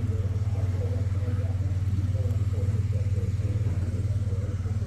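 A 1994 Chevrolet Blazer's 5.7-litre 350 V8 running steadily with a low, even drone.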